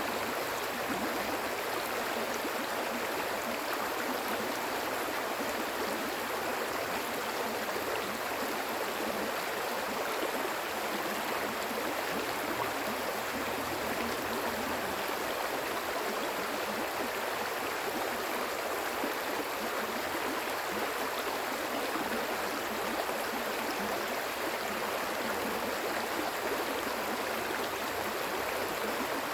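Stream water flowing and burbling steadily over rocks, an even rushing with no breaks.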